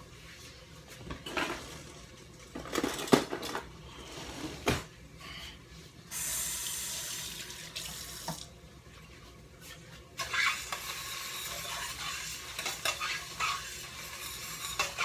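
Kitchen work: dishes and utensils knocking and clinking, with a steady hiss of running tap water for a couple of seconds around the middle and again, with more clatter, through the last few seconds.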